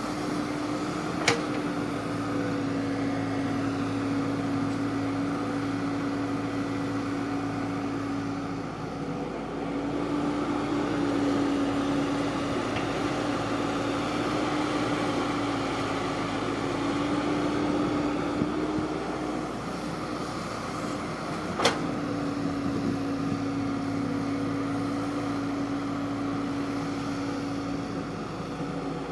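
Engine of a rice-harvesting machine running steadily, a constant drone that fades briefly twice. Two sharp clicks stand out, one about a second in and one about three quarters of the way through.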